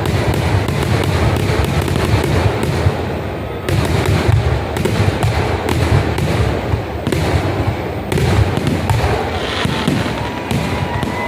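Kerala temple-festival fireworks (vedikkettu): a continuous barrage of rapid firecracker explosions, many bangs a second, over a deep, unbroken rumble.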